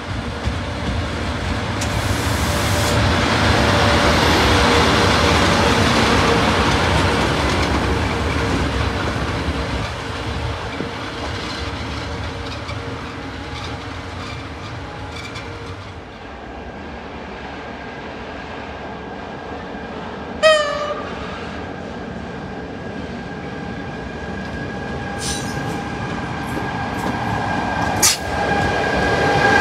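A train passing through a station, its rushing rail noise building over the first few seconds and fading away. About two-thirds of the way through comes one short horn toot. Near the end a steady high whine of another train swells louder.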